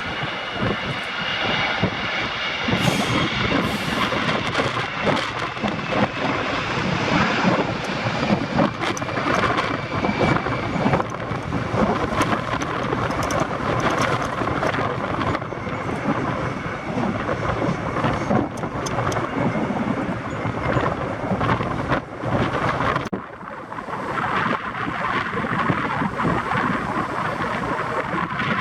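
A jet airliner's engines rumbling under heavy wind buffeting on the microphone, with a faint high engine whine in the first ten seconds or so.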